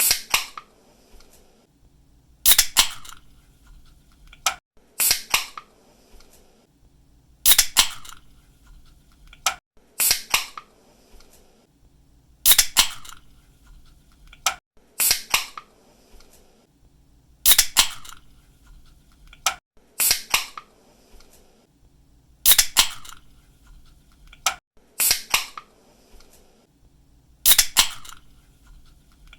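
Aluminium drink can being opened again and again, about every two and a half seconds. Each time there is a small click of the ring-pull tab, then a sharp pop and a short fizzing hiss of escaping gas.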